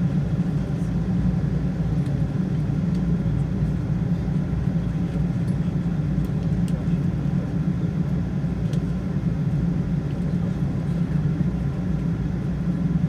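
Steady cabin rumble of a Boeing 777-200ER with Rolls-Royce Trent 800 engines: engine and airflow noise heard from inside the passenger cabin, low and even throughout.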